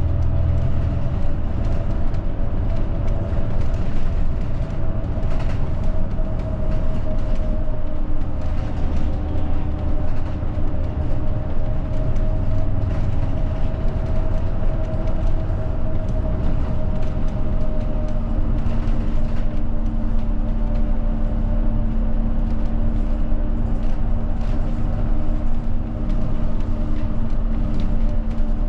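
Steady engine and road rumble heard from inside a moving route bus, with a faint whine that drifts slowly in pitch and a second, lower whine joining about two-thirds of the way through.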